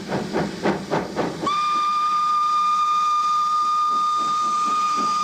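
Pakistan Railways SGS-class 0-6-0 steam locomotive working, its exhaust chuffing about four times a second. About a second and a half in, a long, steady steam whistle blast starts and is held.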